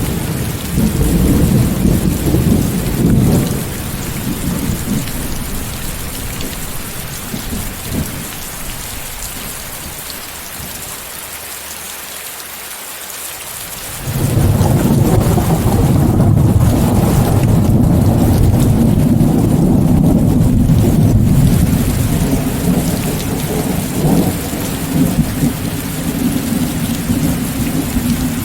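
Steady heavy rain with rumbling thunder. A rumble in the first few seconds dies away, and about halfway through a louder, long rumble of thunder starts suddenly and carries on over the rain.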